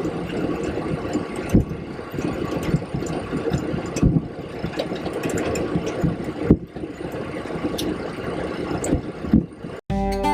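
Boeing 727 cockpit noise with the jet engines running at low power: a steady rumble and hiss with occasional knocks and rattles. Near the end it cuts off abruptly and acoustic guitar music begins.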